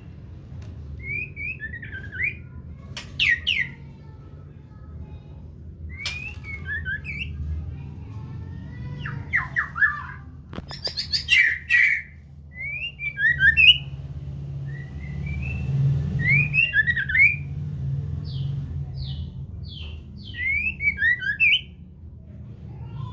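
White-rumped shama calling: clusters of short, sharp chirps and squawks repeated every few seconds, with a few sharp clicks, over a steady low hum.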